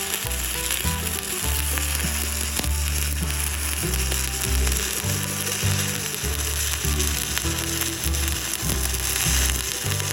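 Stick-welding arc from a 7018 electrode burning steadily, a continuous frying crackle.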